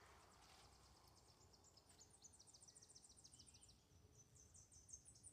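Near silence in quiet woods, with a faint, high-pitched, rapid trill of many notes a second starting about a second and a half in.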